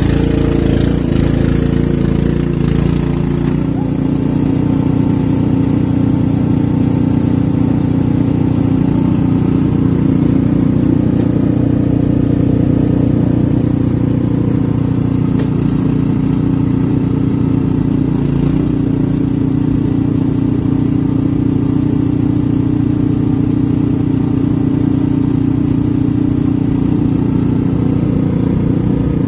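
An engine running steadily at constant speed, with an even, unchanging drone.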